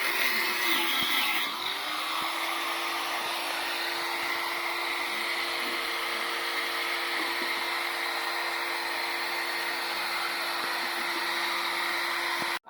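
Corded electric power tool motor running steadily at high speed, with a harsher, more uneven stretch in the first two seconds, then cutting off suddenly near the end.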